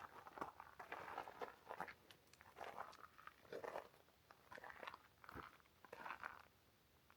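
Footsteps crunching on a forest trail, faint, at a steady walking pace of a little more than one step a second, stopping shortly before the end.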